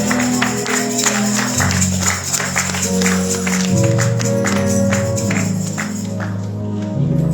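Church worship band playing gospel music with a steady beat: sustained bass and keyboard chords over regular tambourine-like strikes.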